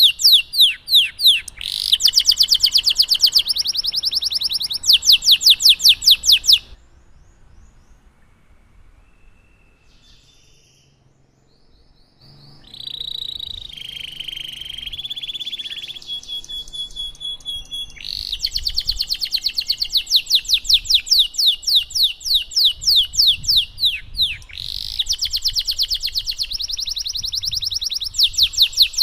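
Domestic canary singing: fast rolling trills of rapidly repeated notes, which break off about six seconds in. After a quiet stretch of a few faint chirps, it sings softer warbles and a held whistled note, then goes back into loud fast trills.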